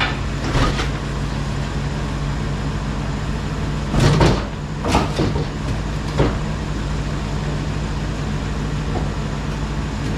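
Plow truck engine idling steadily, with a few metal clunks about four to six seconds in.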